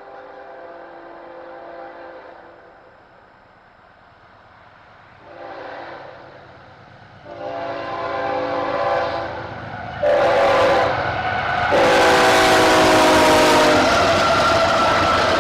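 Locomotive air horn sounding a series of blasts for a grade crossing, growing louder as the train approaches: two shorter blasts, then a long one, a short one and a final long blast whose pitch sags slightly. The rumble of the oncoming train rises beneath it.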